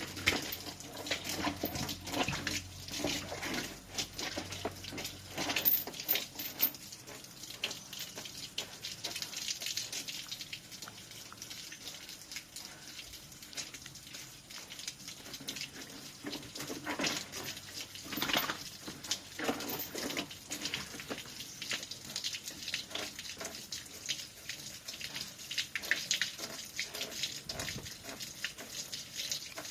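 A sow in water: irregular wet splashing and sloshing, with occasional grunts.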